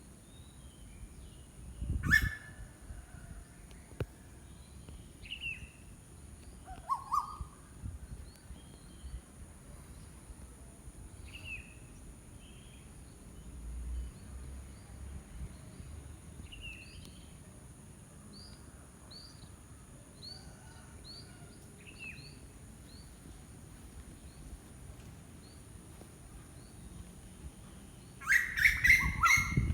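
Wild birds calling: short, scattered chirps every second or so, with a loud call about two seconds in and a loud burst of rapid repeated notes near the end.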